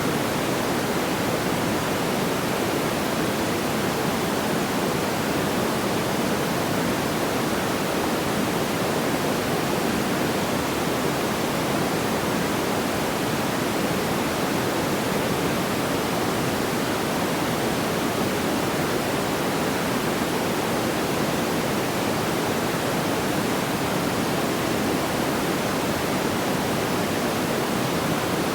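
Steady pink noise: an even, unbroken rushing hiss with most of its weight in the lower middle range and no crackles or pops.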